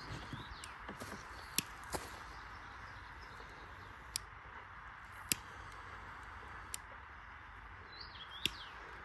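Outdoor ambience with a steady hiss, a handful of sharp snaps or clicks spread through it, and a quick bird chirp near the end.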